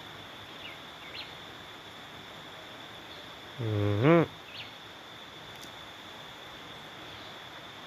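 Steady high-pitched insect drone, like crickets, with a few faint short chirps. About halfway through comes one loud, short, low voiced sound that rises in pitch, like a hum.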